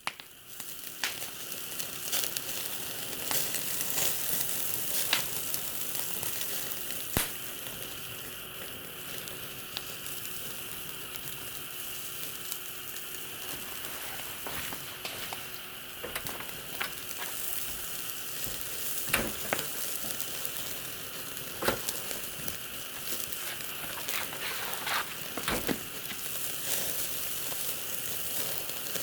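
Food frying in a pan over a campfire: a steady sizzling hiss with scattered sharp pops and crackles.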